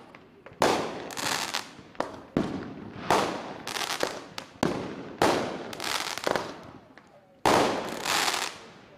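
Fireworks exploding overhead: a run of about seven sharp bangs, a second or so apart, each dying away over about a second. The loudest bang comes near the end.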